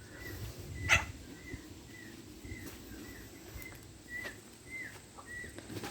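A backyard bird giving a short, high chirp over and over, about two a second, with a sharp click about a second in.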